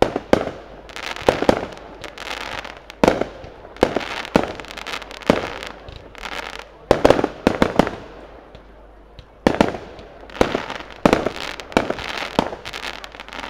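Aerial firework shells bursting in a rapid series of sharp bangs, each followed by a fading echo, with a short lull about eight seconds in before the bangs pick up again.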